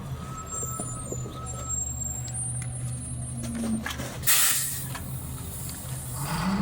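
Garbage truck's diesel engine running steadily, with a short loud air-brake hiss about four seconds in. The engine revs up near the end.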